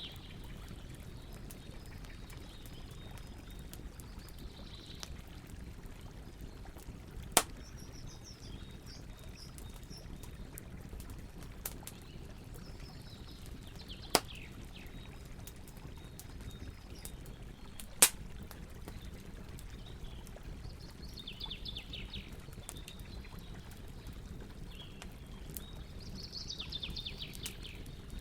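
Campfire burning with a steady low hiss, cracking with three loud sharp pops about seven, fourteen and eighteen seconds in. Songbirds sing brief phrases several times in the background.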